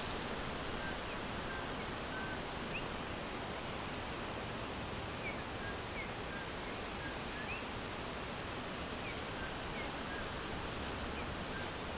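Forest ambience: a steady hiss of background noise with faint, short bird chirps scattered throughout.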